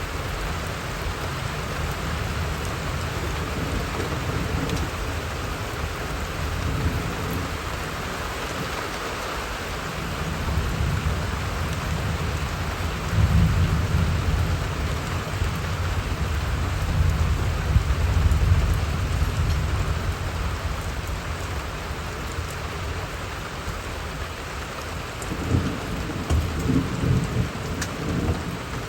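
Steady rain falling, with low rolling thunder rumbling from about a third of the way in, loudest around the middle, and another rumble near the end.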